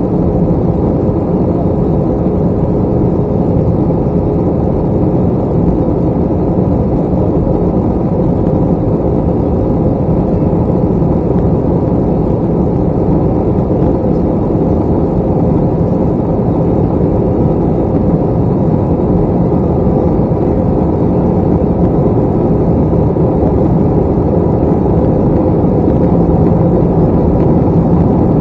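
Steady drone of an Airbus A321's jet engines and rushing air, heard inside the passenger cabin, with a faint steady hum underneath.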